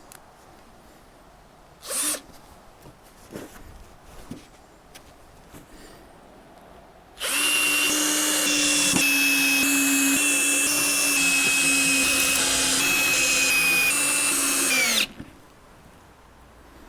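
Power drill running steadily for about eight seconds, slowing slightly just before it stops, preceded by a brief knock and light handling sounds.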